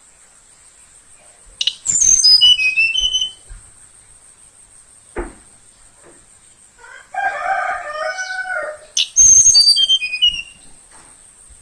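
Young tledekan songbird singing: two quick whistled phrases that fall in steps from very high to mid pitch, about seven seconds apart, with a lower warbling phrase between them.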